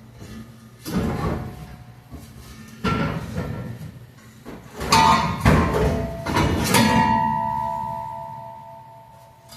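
Metal being knocked and clanked, five sharp strikes with a bell-like ring after each, most likely the steel exhaust pipe being worked loose. The last, loudest strike rings on and fades over about two seconds.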